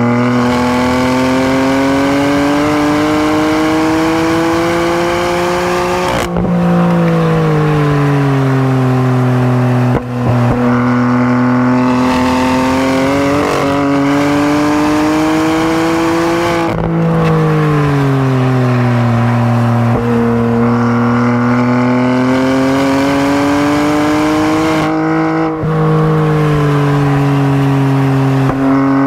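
BMW M3's twin-turbo inline-six running hard on a race track, its pitch climbing steadily for several seconds under acceleration and then falling away, three times over.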